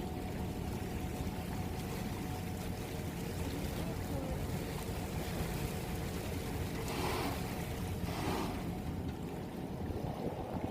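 Motorboat under way: a steady engine hum and rumble mixed with wind and water rushing past the hull, with two brief louder rushes of water in the second half.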